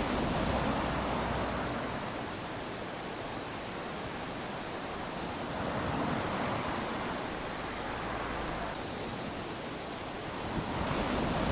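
Small waves lapping onto a sandy shore, swelling and washing in about every five to six seconds over a steady hiss of surf.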